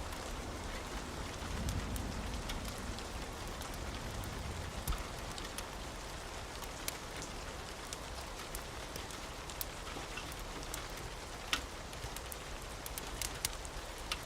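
Steady rain falling, an even hiss with scattered sharp pops and ticks of a crackling wood fire.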